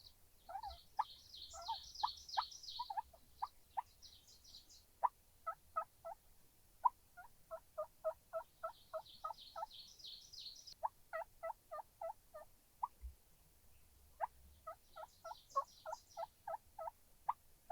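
Wild turkeys calling in runs of short, sharp, evenly spaced yelping notes, about four or five a second, repeated several times. Four bursts of high-pitched chatter sit over them.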